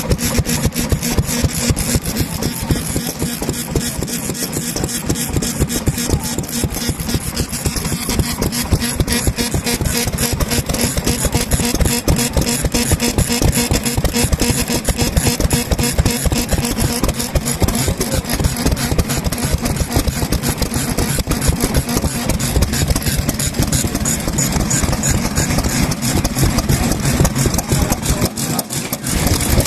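Vintage Japanese stationary kerosene engines running steadily, a fast, even exhaust beat with a steady low hum beneath it.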